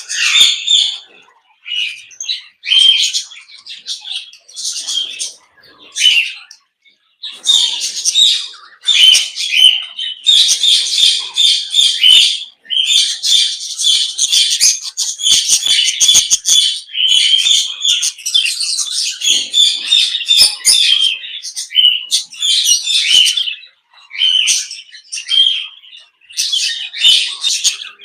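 A flock of small aviary parrots chirping and chattering in many overlapping high calls. It comes in short bursts with brief gaps, then runs almost unbroken for a stretch in the middle.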